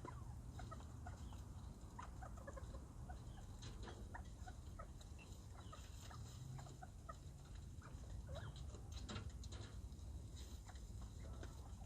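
Bobwhite quail making short, soft clucking and peeping calls, scattered throughout, with light ticks and scratches among them.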